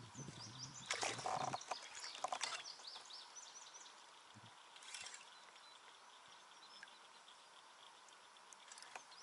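Birds chirping and calling, many short quick chirps, busiest in the first few seconds. A brief burst of noise comes about a second in, over a faint steady background hiss.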